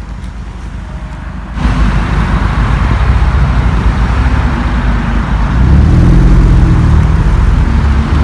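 A car engine running with a loud low rumble and rushing noise. The sound jumps suddenly louder about a second and a half in, and the engine note grows stronger past the middle.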